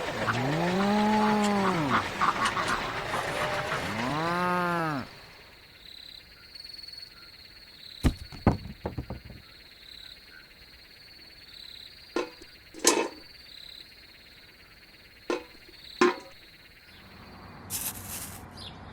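An animal call that rises and falls in pitch, heard twice in the first five seconds, followed by scattered sharp knocks.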